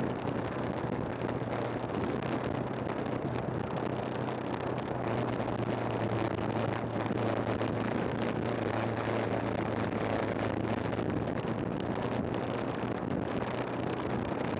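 KTM 390 Adventure's single-cylinder engine running at a steady pace while riding, mixed with wind noise on the microphone.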